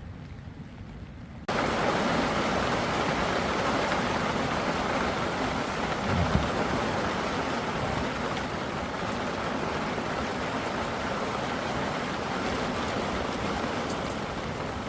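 Heavy rain pouring in a steady hiss, starting abruptly about a second and a half in. A brief low thump about six seconds in.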